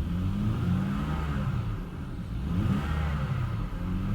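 2001 BMW 525i's 2.5-litre straight-six revved twice from idle, the pitch rising and falling back smoothly each time, heard from inside the cabin. It revs up smoothly, a sign of a healthy engine.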